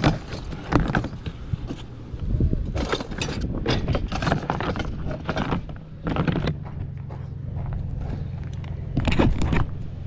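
Knocks, clatter and scraping of objects being handled, in several short clusters. A steady low hum comes in about two-thirds of the way through.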